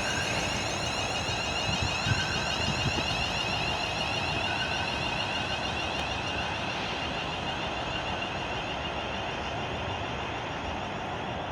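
Class 350 Desiro electric multiple unit pulling away: steady running noise with an electric whine that climbs slowly in pitch as it gathers speed, slowly getting quieter.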